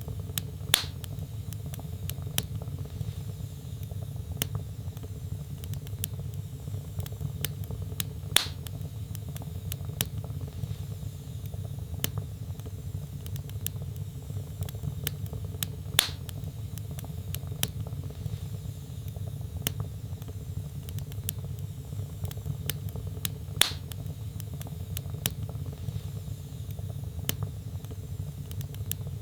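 Log fire burning in a fireplace: a steady low rumble of flames with frequent small crackles, and a louder pop about every seven to eight seconds.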